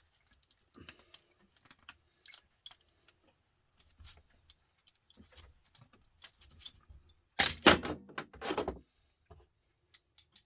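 Light metallic clicks and clinks of scrap metal parts being handled, with a louder stretch of metal rattling and scraping about seven and a half seconds in, lasting just over a second.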